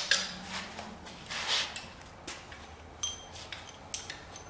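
Small steel engine valvetrain parts being handled and set down, with a soft scrape and then two sharp metallic clinks that ring briefly, about three and four seconds in. The parts are being sorted as worn ones are culled for scrap.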